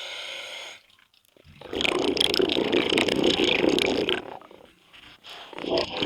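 Scuba diver breathing through a regulator underwater: a short hissing inhale, a pause, then a long rush of exhaled bubbles lasting over two seconds, with the next breath starting near the end.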